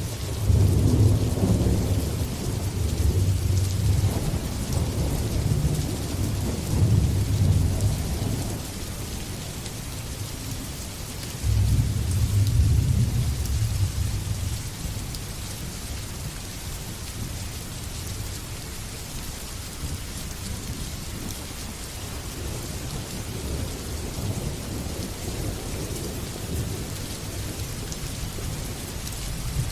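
Steady rain falling, with thunder rolling in deep rumbles through the first eight seconds or so. A second peal breaks in suddenly about eleven seconds in and rumbles away within a few seconds, leaving the rain on its own.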